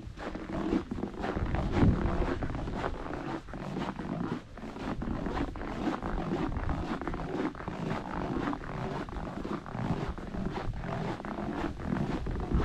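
Waterfall rushing: a dense, continuous noise with a rumbling low end that swells and dips.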